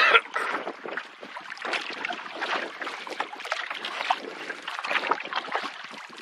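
Canoe being paddled on wind-ruffled water: paddle strokes and water splashing and lapping against the hull, with wind on the microphone. A brief loud splash or gust comes right at the start.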